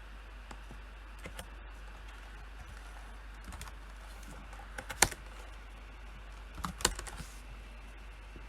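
Computer keyboard keys pressed sparsely: scattered single keystrokes, with one louder key strike about five seconds in and a short cluster of keystrokes near seven seconds.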